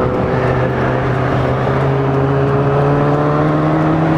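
Sport motorcycle engine running under way, its pitch rising slowly and steadily as it pulls in one gear, over a constant rush of wind and road noise.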